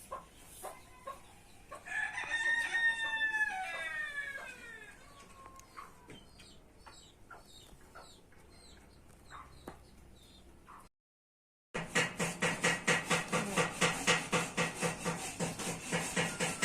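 A rooster crows once, a long call falling in pitch, with faint chirps and clucks after it. After a short break, a loud, rapid pulsing sound starts, about four beats a second, and runs to the end.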